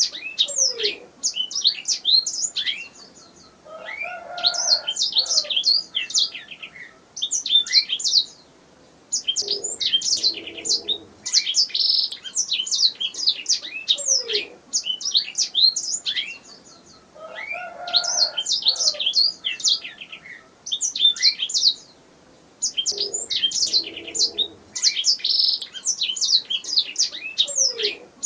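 Domestic canary singing: long phrases of rapid high trills and chirps, broken by brief pauses every few seconds. Fainter, lower-pitched warbling sounds come and go several times beneath the song.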